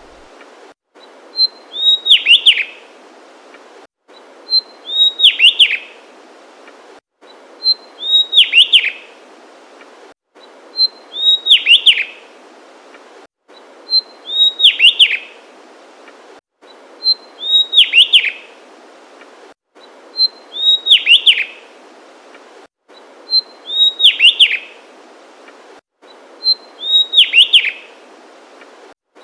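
Javan tesia singing the same short song phrase over and over, about every three seconds. Each phrase is a thin high note followed by a few quick notes that sweep down in pitch. The repeats are identical, as in a looped recording.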